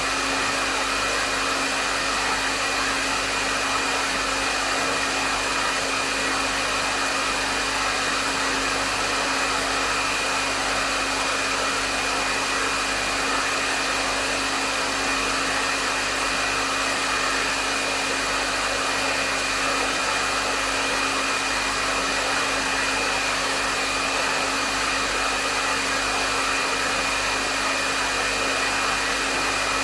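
Hair dryer running continuously at a medium setting: a steady rush of airflow over its motor's whine, with no change in speed or level.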